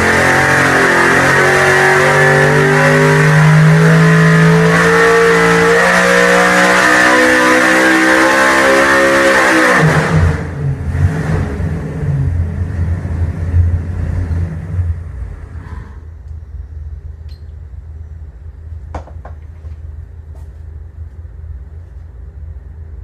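Freshly built 632 cubic-inch big-block Chevy V8 on an engine dyno during a break-in pull, running at full throttle with its pitch climbing steadily. About ten seconds in the throttle is chopped and the engine drops back to a lower, uneven running, then shuts off about 16 seconds in, leaving a few sharp clicks.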